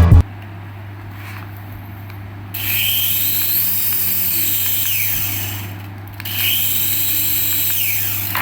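A small electric toy motor whirring twice, each time starting suddenly and then winding down in pitch, over a steady low hum.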